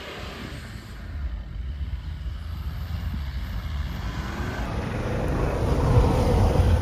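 Volvo XC70 D4 AWD's five-cylinder diesel running through deep snow, a low rumble that sets in about a second in and grows steadily louder toward the end.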